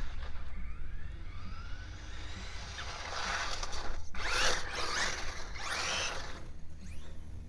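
Electric motor of a radio-controlled Traxxas car whining up and down in pitch as it revs. From about three seconds in come louder rushing bursts, spinning tyres throwing snow, with the whine sweeping up and down through them.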